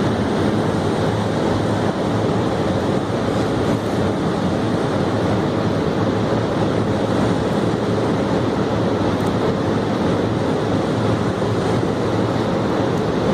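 Grape drying and sorting machine running: a steady, even noise of its motors and air flow, with a low hum underneath.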